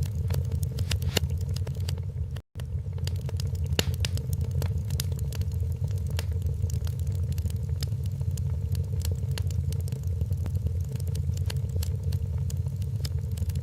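Wood fire crackling in a fireplace: irregular sharp pops and snaps over a steady low rumble. The sound cuts out for an instant about two and a half seconds in.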